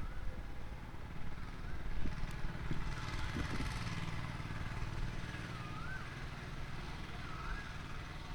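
Low, steady engine rumble of a motor vehicle, with a short warbling whistle repeating about every second and a half.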